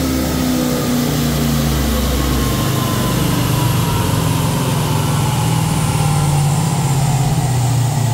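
Holden VZ Calais's LS1 5.7-litre V8 on a chassis dyno, its revs falling over the first couple of seconds after a power run and then settling into a steady idle. A higher whine falls slowly in pitch throughout as the wheels and dyno rollers spin down.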